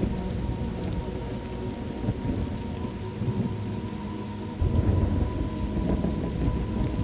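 Thunderstorm ambience: steady rain with low rolling thunder, the rumble swelling up suddenly about four and a half seconds in.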